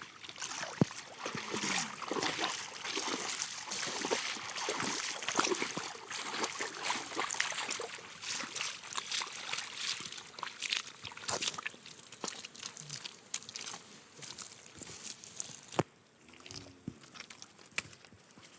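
Shallow river water splashing, sloshing and trickling in many small irregular splashes, dying down after about fifteen seconds. A sharp knock comes about a second in and another near the end.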